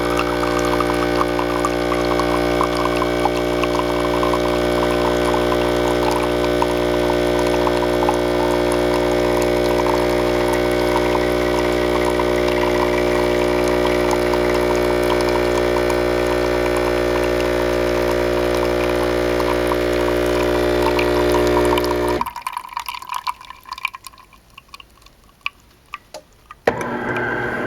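DeLonghi ESAM3300 espresso machine's pump humming steadily while coffee pours into the cup, cutting off suddenly about 22 seconds in. A few faint clicks and drips follow, then a louder sound starts again near the end.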